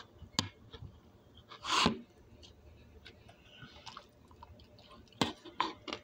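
A person chewing and biting broccoli with open-mouthed, wet smacking and clicking. A louder short rush of noise comes about two seconds in, and a cluster of sharp clicks comes near the end.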